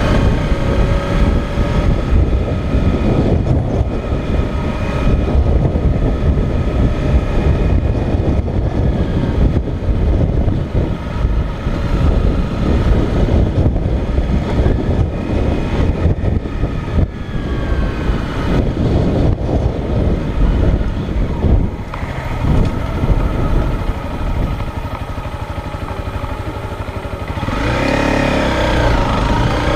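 Motorcycle engine running under way, its pitch drifting up and down with the throttle, under heavy wind rush on the helmet or bike-mounted microphone. Near the end the revs rise and fall more sharply.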